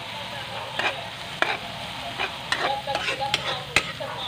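Chopped onion, garlic and red bell pepper sizzling in hot oil in a wok, with a spatula stirring and scraping, knocking against the pan several times at irregular intervals.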